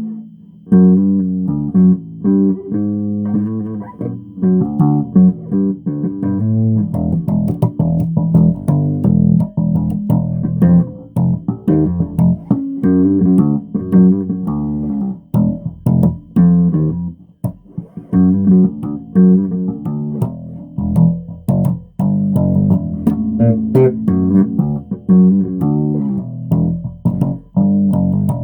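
Bass guitar played solo: a busy run of plucked single notes, each one short and separate.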